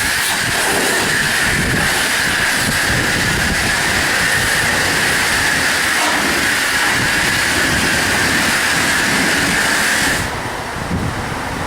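Self-serve car wash high-pressure wand spraying water, a steady loud hiss with a whine running through it. About ten seconds in the high hiss drops away.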